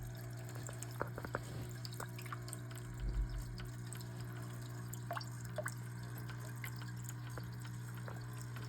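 Small tabletop gemstone waterfall running into an aquarium: water trickling and dripping onto stone, with a steady low hum underneath.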